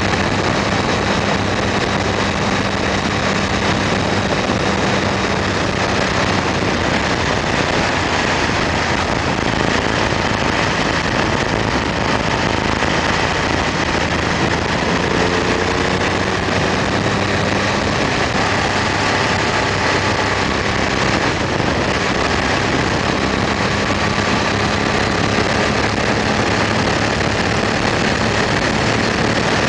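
BMW motorcycle at a steady cruise: the engine's even hum under a steady rush of wind and road noise.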